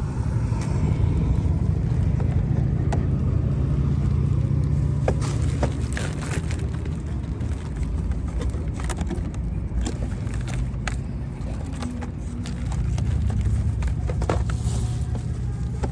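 A small engine running steadily with a low hum, with scattered light clicks and knocks of things being handled.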